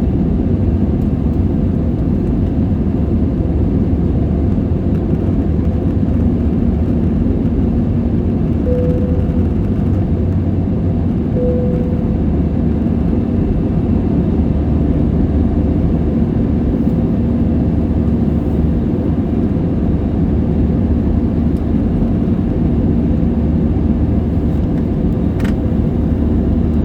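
Airliner cabin noise: a steady low drone of jet engines and rushing air, heard from inside the cabin, with two brief faint tones near the middle.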